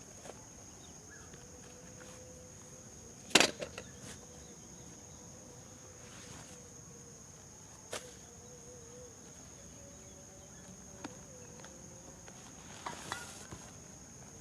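Insects calling in a steady high-pitched drone, with a fainter steady lower tone beneath it. A few sharp clicks or knocks cut through, the loudest about three seconds in and smaller ones later.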